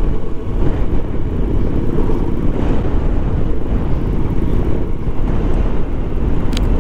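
Motorcycle running along the road at steady speed, its engine and the rushing wind blending into a steady low rumble. There is a brief click near the end.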